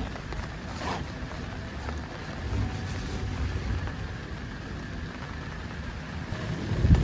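Storm wind gusting with rain, the wind buffeting the microphone as a low rumble. Near the end a louder low rumble begins to swell.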